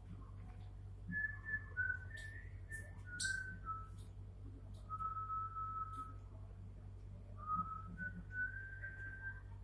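Whistling in held, clear notes that step up and down in pitch, like a slow tune, with short high squeaks about two to three seconds in.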